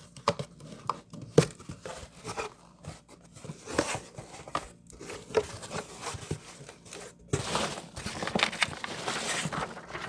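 A cardboard shipping box being opened by hand: scattered clicks and scrapes of cardboard, then, in the last few seconds, a longer spell of crinkling and tearing of packing material.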